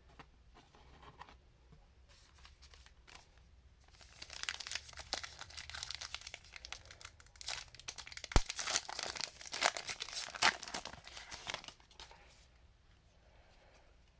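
A trading-card pack's plastic foil wrapper being torn open and crinkled. The tearing and crinkling starts about four seconds in, runs for about eight seconds with a few sharp snaps, then dies away.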